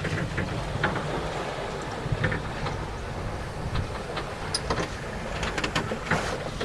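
Wind buffeting the microphone over the rush of water along a sailing yacht's hull while under way, with scattered short splashes and knocks.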